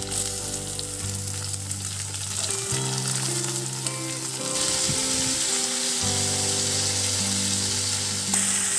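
Raw prawns sizzling as they fry in hot oil in a metal kadai, the hiss growing louder about halfway through. A metal spatula stirs them near the end.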